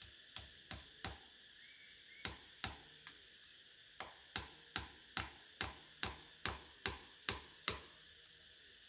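Repeated chopping strokes, about sixteen in all: two short runs of three, then a steady run of ten at about two and a half strokes a second. A steady insect hum runs underneath.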